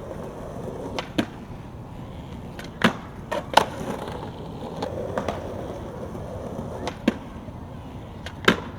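Skateboard wheels rolling over pavement, broken by several sharp clacks of the board striking the ground, from tail pops and landings. The loudest clacks come about three seconds in, a little after that, and near the end.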